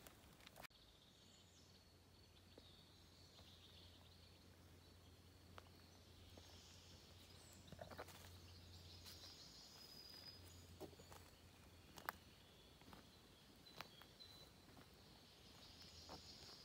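Faint forest ambience: distant birds calling with thin, high whistled notes, and a few soft clicks.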